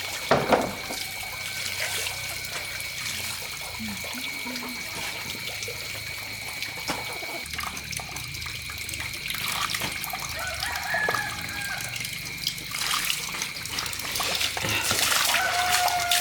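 Running water trickling, with a sharp knock about half a second in and a steady thin high tone above the water.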